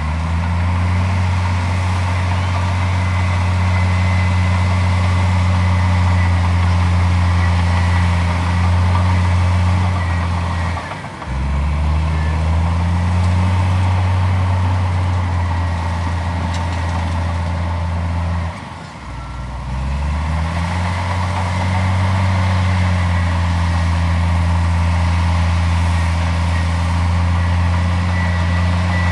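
Heavy diesel earthmoving machine engine running hard with a steady low drone. The engine note drops briefly about eleven seconds in and again about eight seconds later, each time climbing back up as the machine takes load again.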